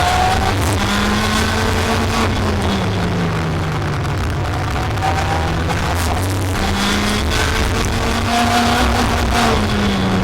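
Racing kart engine at high revs, its pitch climbing and falling several times as it accelerates and lifts, over a steady rushing noise.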